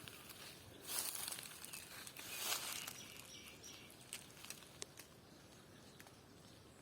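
Footsteps rustling and crunching on dry ground, loudest about one and two and a half seconds in, then a few light ticks as they fade.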